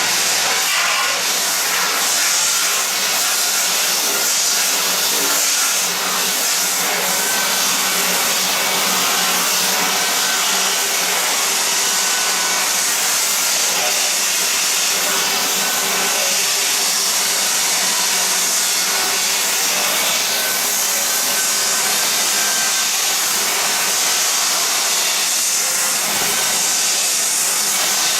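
Floor edging sander (disc sander) running steadily, its spinning sanding disc grinding along the edges of old wooden floorboards at the wall.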